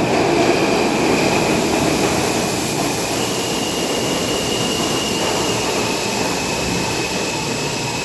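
R160A subway train running through an underground station: a steady rumble with a faint high whine, slowly easing off.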